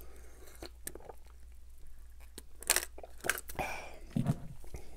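Close-miked eating sounds: chewing with soft wet mouth clicks, and a few short crisp crunches about halfway through.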